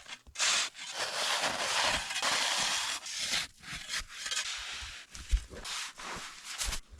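A hand tool scraping and cutting into hard-packed snow while a snow cave is dug out, in a run of irregular rasping strokes, some over a second long.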